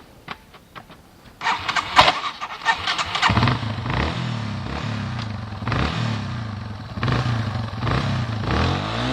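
Motorcycle engine that has been refusing to start catches after a noisy scramble about a second and a half in. It settles into running from about three seconds in, surging every second or so, and rises in pitch near the end.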